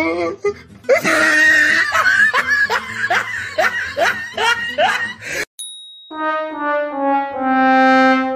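Comedy sound effects: a burst of hearty human laughter with repeated falling cries, then a brief gap and a descending 'sad trombone' brass phrase of a few stepped notes, ending on a long held low note.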